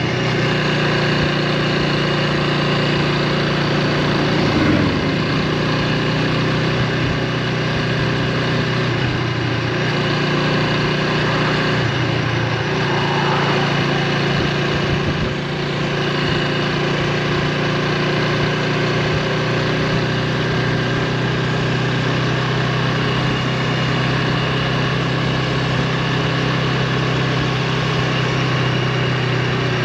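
2024 Honda Rebel 300's single-cylinder engine running at a steady pitch, with a brief dip in level about halfway through.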